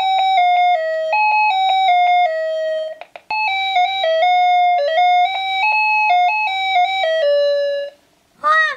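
Electronic chime tune: a simple melody of clear stepped notes in two phrases, the first ending about three seconds in and the second stopping about a second before the end.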